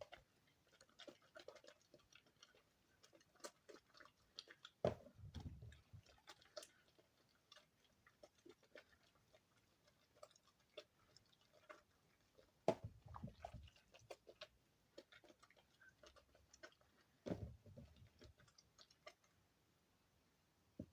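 Hands squeezing and kneading damp soap shavings into a lump: faint, soft crackling and squishing, with three louder squelching presses about five, thirteen and seventeen seconds in.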